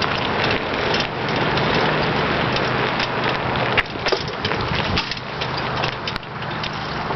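Riding sounds on a bike: a steady rush of wind and road noise with frequent rattles and clicks.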